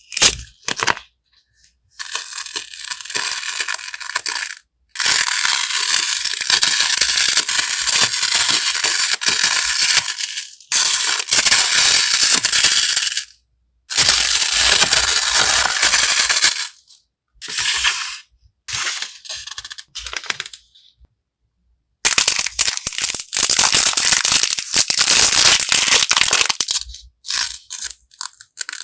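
Crinkly packaging rustled and crackled by hand during unboxing, in several bouts of a few seconds each separated by brief pauses.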